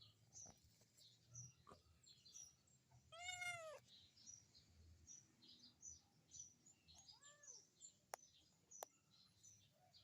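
A kitten meows, once clearly about three seconds in and again more faintly about seven seconds in, each call rising and then falling in pitch. Throughout, a lovebird chirps in short, high, rapid notes, and two sharp clicks come near the end.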